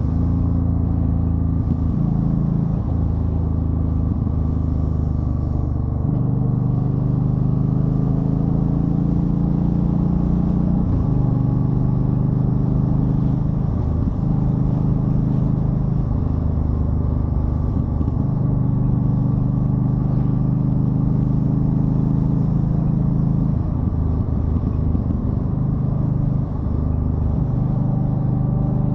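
2013 Yamaha Stryker's V-twin engine running under way, its note stepping up and down in pitch every few seconds as the speed changes.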